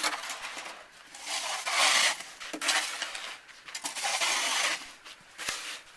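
Snow shovels scraping across a snow-covered driveway in about four strokes, with a short knock near the end.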